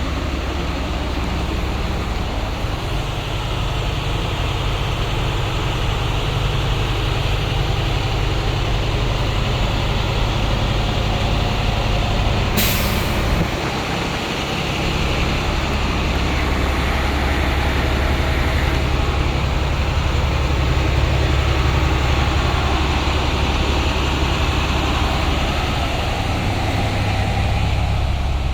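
International MaxxForce DT 7.6 L inline-six diesel in a school bus running steadily, with a sudden sharp hiss about twelve seconds in that fades over a second or so.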